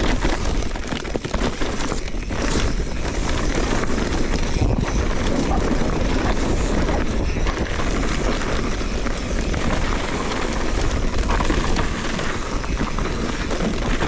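Steady rushing noise with a heavy low rumble: wind on the microphone while moving along the trail.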